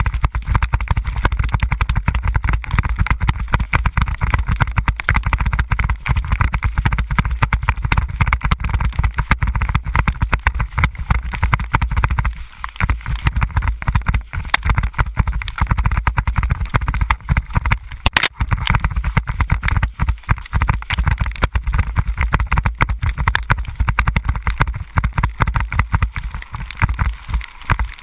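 Continuous rumbling ride noise with heavy wind buffeting on the microphone, rough and crackling throughout, easing briefly about halfway through.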